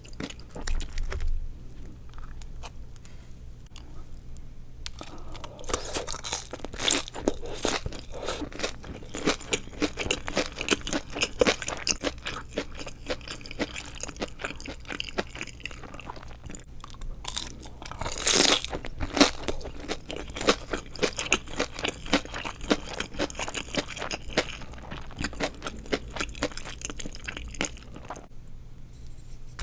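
Crunching and chewing of deep-fried seaweed rolls filled with glass noodles: a run of crisp crackles, quieter for the first few seconds, with one loud crunch a little past halfway.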